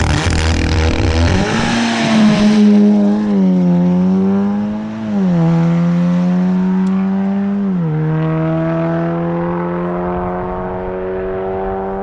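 Audi S3 8V's 2.0 TFSI four-cylinder engine exhausting through an open bonnet-mounted exhaust cut-out valve. The revs climb quickly with a rush of hiss, then are held high and nearly steady, easing down in small steps a few times.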